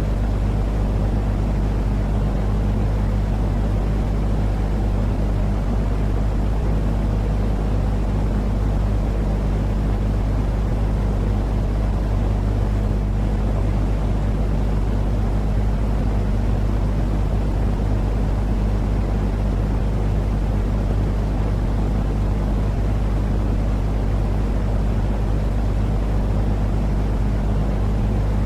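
Continuous sleep-noise track: a steady low rumbling hiss with a constant low hum underneath, unchanging throughout.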